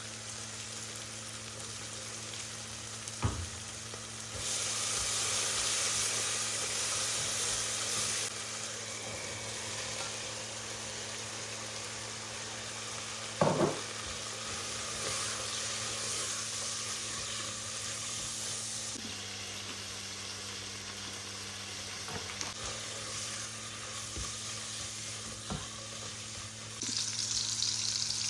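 Food sizzling in a hot frying pan, the sizzle flaring louder about four seconds in and again near the end. A few short knocks of a utensil against the pan, the loudest about halfway through.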